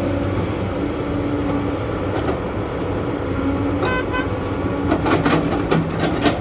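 Heavy diesel earthmoving machinery running steadily, with two short horn toots about four seconds in. Near the end come several sharp clanks and knocks.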